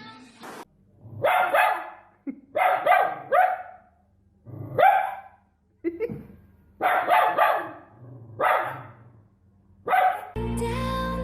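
Dog barking in short runs of two or three barks with pauses between, about six bursts in all. Music starts near the end.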